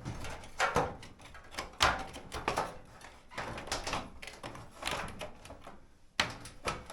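Irregular clicks and knocks of a clothes dryer's sheet-metal and plastic parts being handled and fitted together by hand, the sharpest knock about two seconds in.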